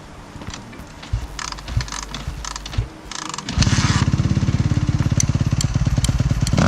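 Suzuki 250 dirt bike: a few light clicks and knocks, then about three and a half seconds in the engine fires and runs with a fast, even beat.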